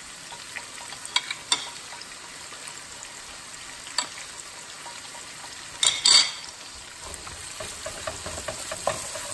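Sliced onions and freshly added minced ginger and garlic sizzling in hot oil in a nonstick frying pan: a steady frying hiss. A few short clicks and knocks of a metal spoon and wooden spatula against the pan come through it, loudest as a brief clatter about six seconds in.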